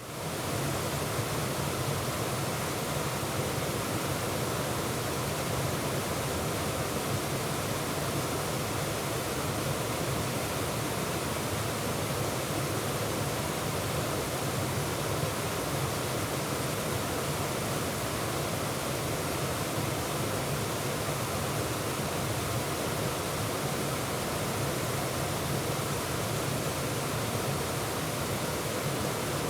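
Waterfall rushing and splashing, a steady, unbroken wash of water noise that fades in at the start.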